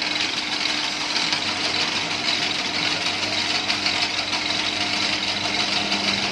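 A noodle-making machine converted from hand crank to motor drive, running steadily with a fast, busy mechanical rattle over a constant hum.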